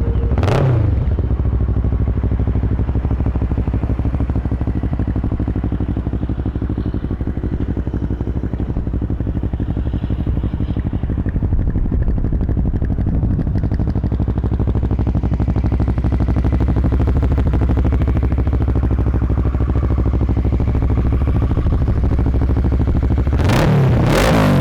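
2009 Kawasaki ER-6n's 650cc parallel-twin engine, fitted with a Two Brothers Racing slip-on muffler, idling steadily. The throttle is blipped once about half a second in and again near the end, the engine note rising and falling each time.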